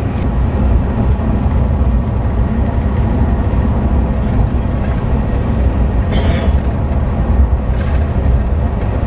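Steady low road and engine noise of a moving vehicle, heard from inside, with two brief hisses about six and eight seconds in.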